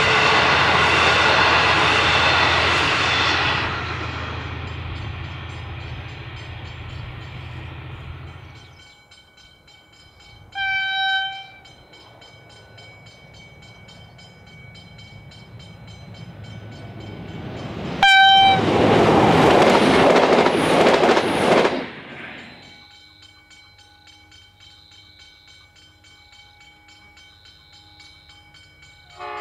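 Loco-hauled passenger carriages rolling past with a rumble and wheel clatter, fading away over the first several seconds. A distant approaching train then sounds its horn briefly, about ten seconds in and again about eighteen seconds in; the second toot is followed by a few seconds of loud rushing noise. Near the end a faint steady hum comes from the oncoming train.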